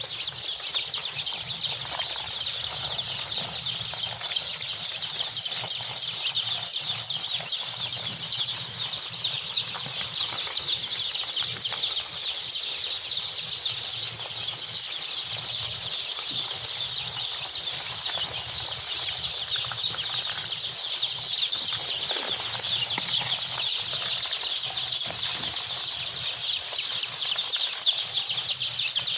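A crowd of young chicks peeping continuously: many short, high chirps overlapping without a break.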